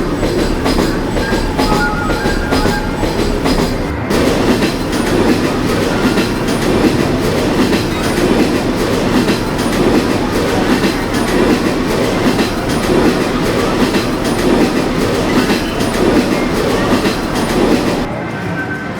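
Kiddie amusement train ride rolling along its track with a steady clattering rumble, which drops away abruptly near the end.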